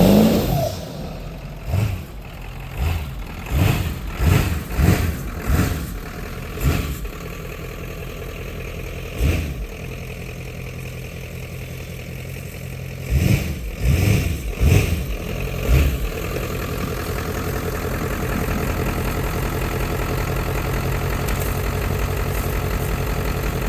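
1995 Ford F-250's 7.3 Powerstroke turbo-diesel V8 idling, revved in a string of short throttle blips over the first several seconds and again in a cluster about halfway through, then running steadily at a slightly higher level.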